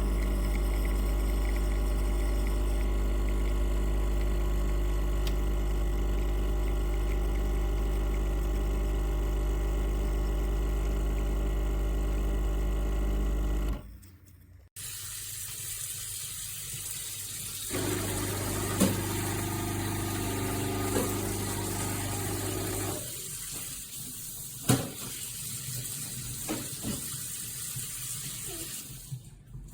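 De'Longhi Vintage Icona espresso machine's vibration pump running with a steady buzzing hum, stopping suddenly about 14 seconds in. After a brief pause comes a steady hiss with a few sharp knocks.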